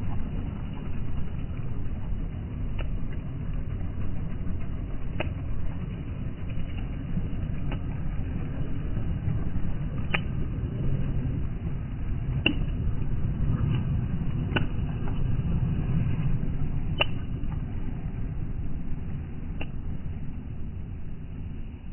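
Heavy truck engine rumbling low and steady, growing louder near the middle and easing off toward the end, with a string of sharp clicks every couple of seconds.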